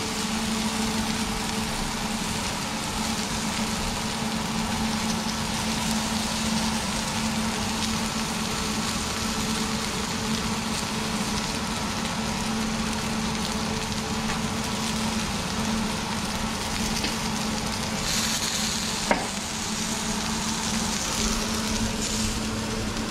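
Cobia fillet cubes sizzling on a hot ridged stovetop grill pan: a steady frying hiss over a steady low hum. A single sharp click about 19 seconds in.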